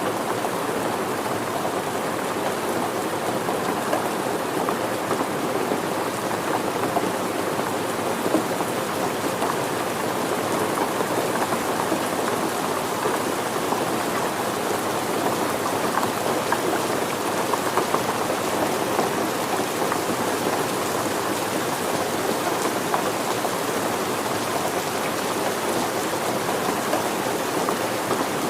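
Steady rain falling: an even hiss of rain with many small drop ticks, unbroken throughout.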